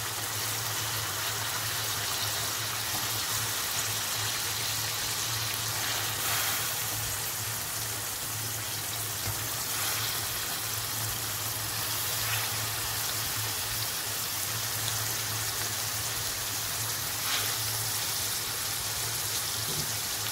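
Chicken and masala sizzling steadily in oil in a pot, with a few soft thuds as handfuls of cubed bottle gourd are dropped in. A low steady hum runs underneath.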